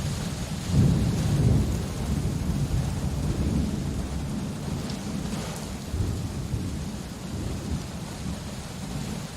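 Steady rain with a low rumble of thunder that swells about a second in and slowly rolls away.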